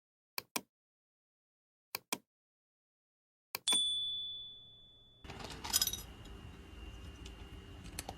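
Two pairs of sharp clicks, then a clink and a bright, high ding that rings out and fades over about a second and a half. After that a steady background hiss with a faint high tone and scattered light clicks.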